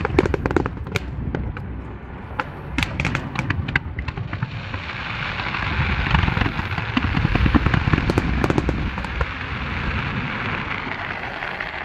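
Fireworks display: a rapid run of sharp bangs and crackles from bursting shells in the first few seconds, then a steady hiss with scattered pops as fountain and comet effects spray sparks upward, over a continuous low rumble.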